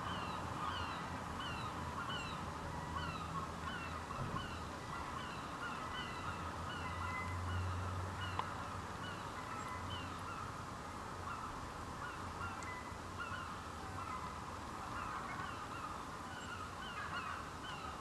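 A chorus of birds calling continuously, many short falling calls repeated and overlapping, over a faint steady low hum.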